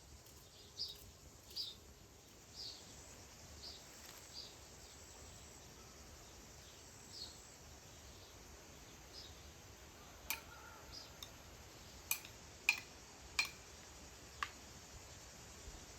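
A small bird calling with short, high, repeated chirps, each sliding down in pitch, about one or two a second, fading out after about five seconds. In the second half come several sharp clicks or clinks, a few seconds apart.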